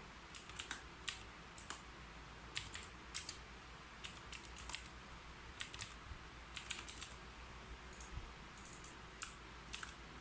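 Typing on a keyboard: irregular short bursts of keystroke clicks with brief pauses between them.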